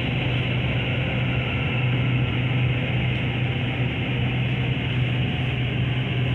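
SRT Red Line electric commuter train running, a steady low hum with rumbling noise.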